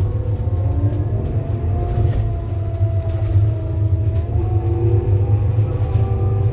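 Scania K230UB bus running under way: a steady, heavy engine rumble with a whine from the ZF Ecomat automatic gearbox that glides slowly up and down in pitch.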